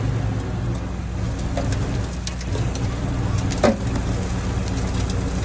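Diesel engine of heavy earthmoving machinery running steadily, with scattered clanks and knocks and one sharper knock a little past halfway.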